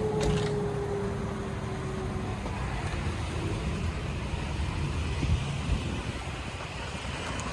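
2008 Toyota 4Runner's 4.7-litre V8 running steadily on the move through a 14-inch Magnaflow muffler, a low, subdued exhaust note under road noise. A faint steady tone slides slightly lower during the first two seconds.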